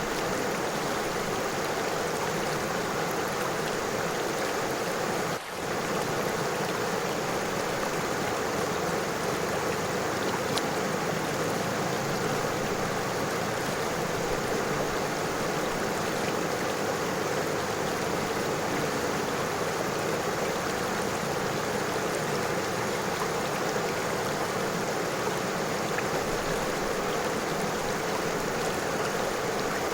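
River water flowing steadily over stones, a continuous rushing and trickling, with a brief drop in level about five seconds in.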